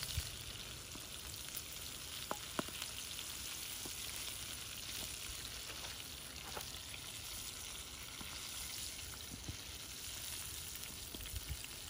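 Flour-coated chicken legs deep-frying in hot oil in a cast iron skillet: a steady sizzle with a few sharp pops.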